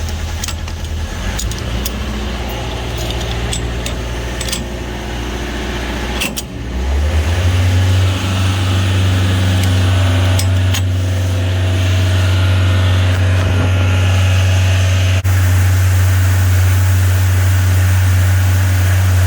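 JLG lift's engine running steadily, with a few light clicks and jangles early on. About seven seconds in, the engine speeds up and stays at a louder, steady note under load.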